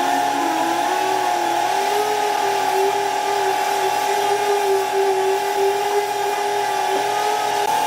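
Electric power tool motor running steadily with a constant whine, its lower tone wavering slightly.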